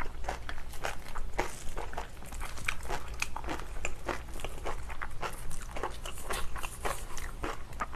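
Close-miked chewing of spicy napa cabbage kimchi with rice: many quick, irregular wet crunches, several a second.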